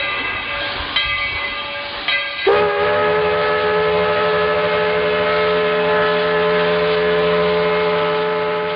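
Steam locomotive whistle blowing one long blast that starts about two and a half seconds in, over a steady hiss of steam.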